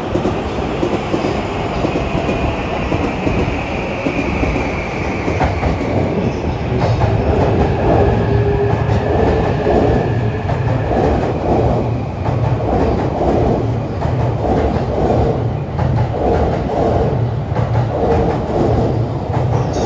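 Limited express electric train pulling out along the platform and gathering speed. A falling whine is heard over the first few seconds. From about eight seconds in, the wheels clatter over the rail joints in a steady rhythm.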